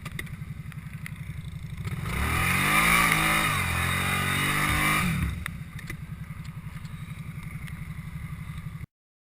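ATV engine idling with an even pulse, revved hard for about three seconds starting around two seconds in, pitch rising and falling, then settling back to idle. The sound cuts off suddenly near the end.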